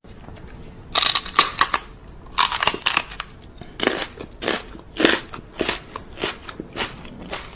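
An animal chewing something hard and crunchy: a run of crisp crunches, bunched at first and then about two a second.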